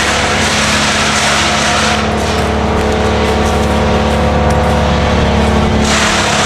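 Engine of heavy land-clearing machinery running steadily, with a high rushing noise over it that eases about two seconds in.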